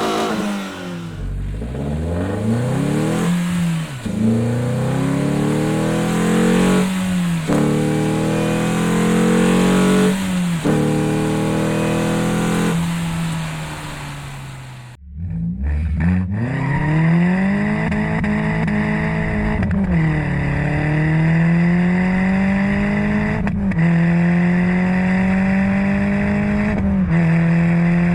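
Renault Sandero RS 2.0 naturally aspirated four-cylinder accelerating hard through the gears, its intake and exhaust note climbing in revs and dropping sharply at each upshift. About halfway the sound cuts off abruptly for a moment, then more full-throttle pulls follow with upshifts.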